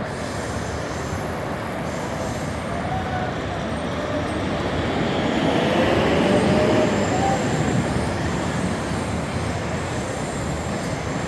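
A JR electric commuter train running across the railway bridge overhead: a broad rumble that builds to a peak about six to seven seconds in, then eases, over steady city traffic noise. A faint tone glides up and falls back around the peak.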